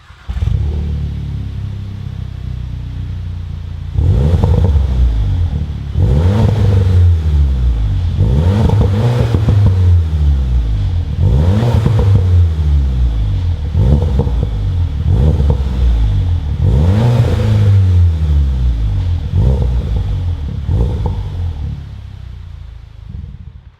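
VW Polo GTI (AW) 2.0 TSI four-cylinder turbo engine through a non-resonated Cobra Sport cat-back exhaust: it starts with a sharp flare and settles to idle. From about four seconds in it is revved in a series of quick throttle blips, the pitch rising and falling each time, with idle between them. Near the end it is switched off.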